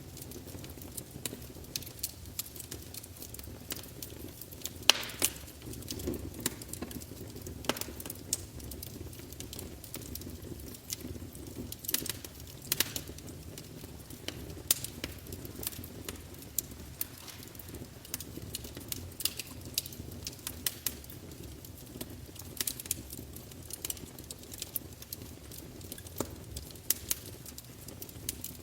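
Log fire burning with a steady low rumble of flames and frequent irregular crackles and pops, the sharpest pop about five seconds in.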